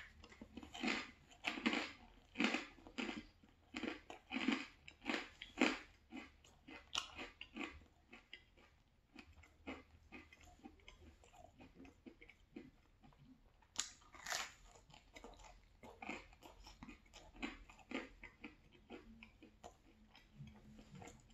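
Close-up chewing of a bite of spicy pepperoni pizza, crunchy and rhythmic, about two chews a second. It is loudest for the first several seconds, then softer, with one louder crunch about fourteen seconds in.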